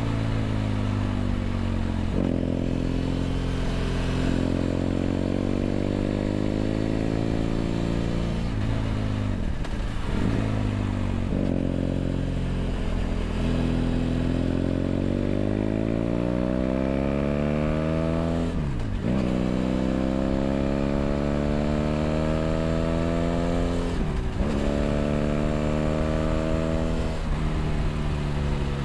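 BMW F800GS parallel-twin engine through a LeoVince LV ONE EVO stainless aftermarket exhaust, heard from the rider's seat while riding. The engine note climbs steadily under throttle over several long pulls, with a few brief, sharp dips between them.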